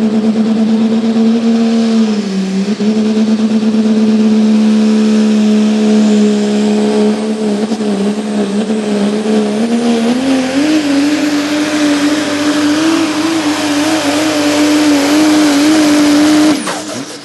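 Pulling truck's engine at full throttle, dragging the sled down the track: a loud, steady drone that dips briefly about two seconds in, then climbs to a higher pitch about ten seconds in and holds there. Near the end it cuts back sharply and the pitch falls away.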